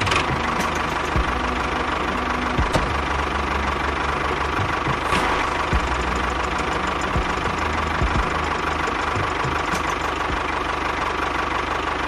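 Miniature toy tractor's motor running steadily, with a low even chug under a constant mid-pitched whine.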